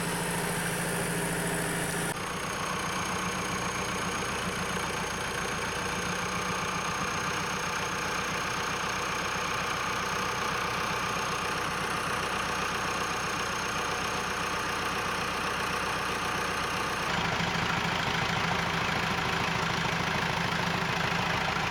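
Tractor engine idling steadily. Its tone changes abruptly twice, about two seconds in and again near the end.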